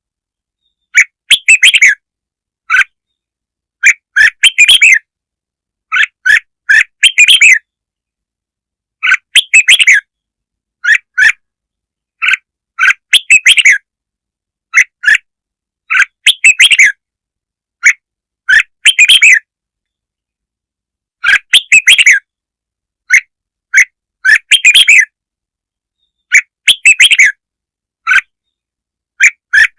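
Red-whiskered bulbul song played as a lure recording: short, loud chirping phrases every one to two seconds, with dead silence between them and one longer pause a little past the middle.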